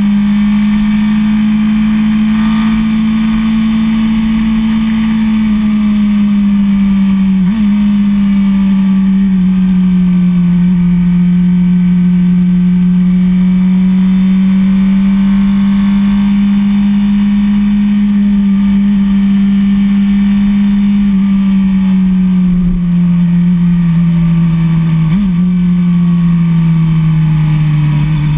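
Sport motorcycle engine running steadily at cruising revs, its pitch held nearly constant. The note dips briefly about a quarter of the way in and again near the end, as with a quick throttle change or gear shift.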